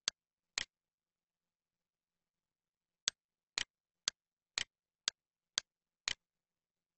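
Sharp clicks: two near the start, then, after a pause of about two and a half seconds, seven more at an even pace of two a second, alternating crisp and slightly longer.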